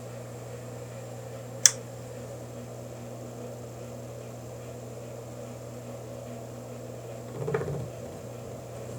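Steady motor hum, with one sharp click a little under two seconds in and a duller knock near the end.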